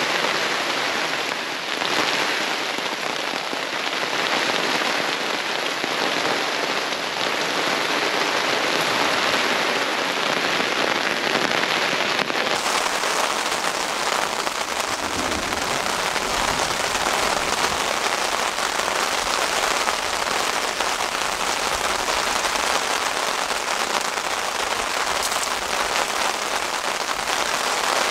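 Heavy rain falling steadily on a canvas tarp overhead, a dense, even hiss.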